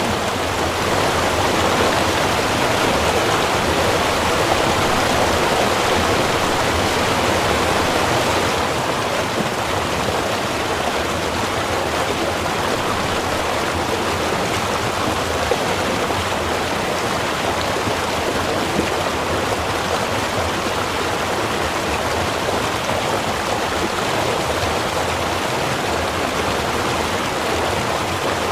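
Small river running, a steady rush of flowing water; it is a little louder and brighter for the first eight seconds or so, then settles slightly softer.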